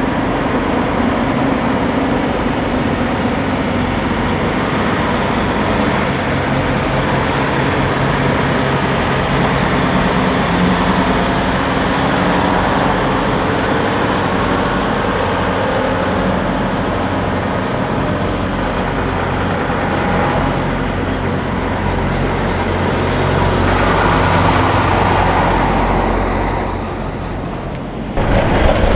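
Semi truck diesel engines running and passing with road traffic, a steady engine hum under tyre and road noise that swells near the end, then cuts off abruptly.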